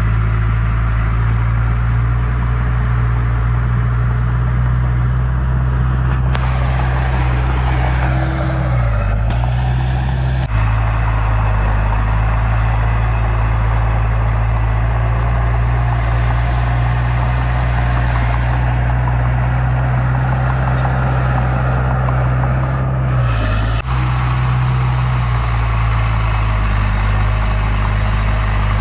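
Heavy diesel engine of earthmoving machinery running steadily, its pitch dipping briefly twice, about a third of the way in and again about three quarters of the way through.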